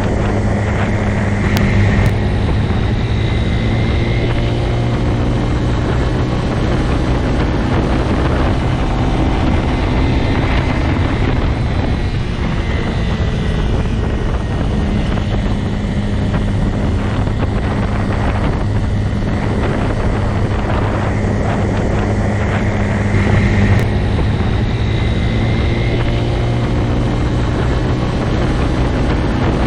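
Motorcycle engine running at a steady speed, with a constant low engine drone and wind rush on the microphone; the pitch rises slightly twice, about two seconds in and near the end.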